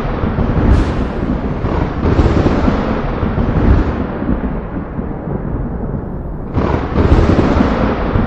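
Thunder rumbling and rolling continuously in swells, with a sudden loud new peal about six and a half seconds in.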